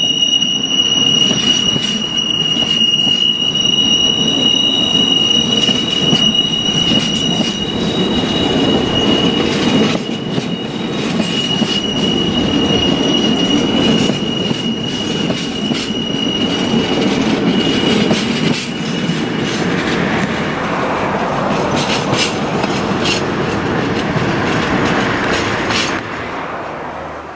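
Freight train hopper wagons rolling past on a curve: a continuous rumble of wheels on rail with a steady high-pitched wheel squeal, which fades out about two-thirds of the way through. The sound dies away near the end as the last wagons pass.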